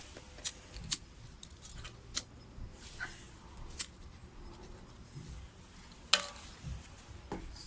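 Wood fire crackling, with about half a dozen sharp, irregular pops from the burning firewood over a faint steady background.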